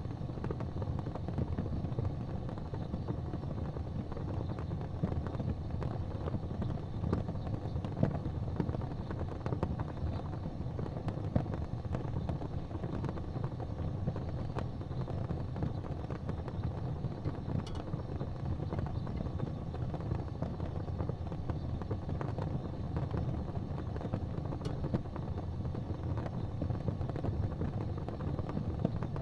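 Wood fire burning in a fireplace: a steady low rush of flames with a few scattered crackles.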